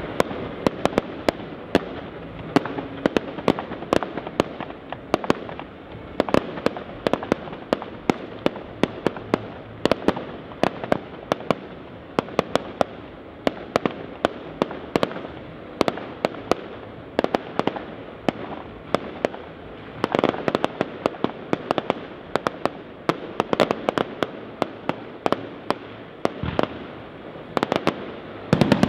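Aerial fireworks bursting: a continuous, irregular run of sharp bangs and cracks, several a second.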